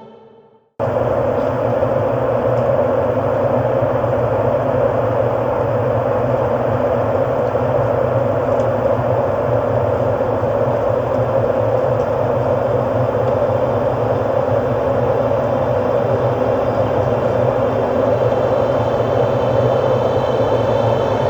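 Ambient electronic music: the previous passage fades out, and about a second in a steady, rumbling noise drone without clear notes starts abruptly and holds unchanged. Near the end, pitched tones come back in.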